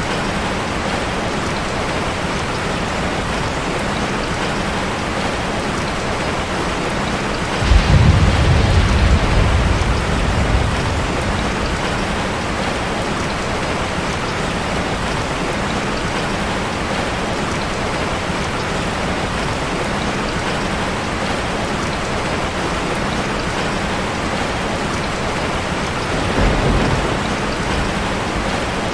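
Steady rain on a metal roof, an even hiss and patter. A sudden deep rumble comes in about eight seconds in and fades over about three seconds, and a weaker one comes near the end.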